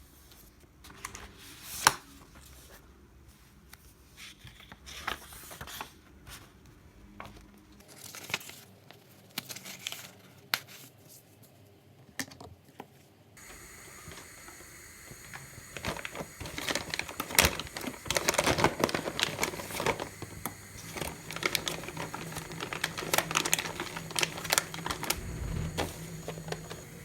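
Crinkling, rustling and light clicks and taps of small objects being handled, sparse at first and busier in the second half.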